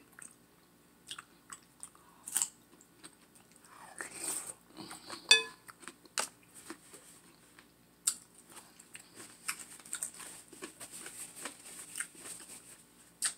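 Close-up eating sounds: biting and chewing crisp cucumber, with crunching and many small wet mouth clicks and smacks. A single louder, briefly squeaky mouth sound comes about five seconds in.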